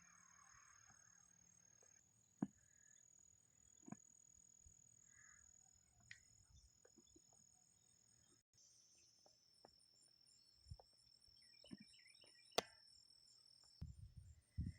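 Faint, steady high-pitched trilling of insects such as crickets, with a few scattered soft clicks and ticks. A burst of low rumbling noise comes in near the end.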